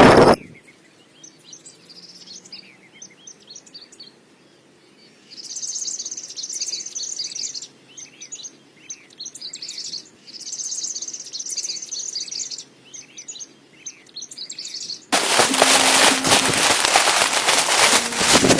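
Small birds chirping, with bursts of rapid high trills, in a quiet stretch. A loud, harsh, steady noise cuts off just after the start and starts again abruptly near the end.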